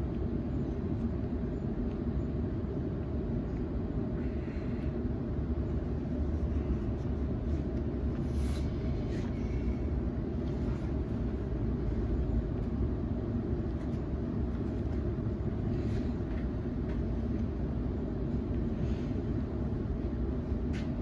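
Steady running noise inside a Sydney Trains Waratah A set electric train: a low rumble of wheels and running gear on the track at an even level, with a couple of faint clicks.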